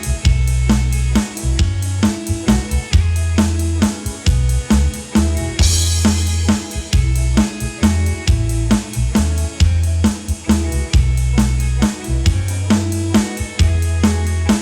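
Live band playing the instrumental break of a waltz. A drum kit keeps a steady beat on bass drum, snare and hi-hat under sustained bass notes, with a cymbal crash about six seconds in.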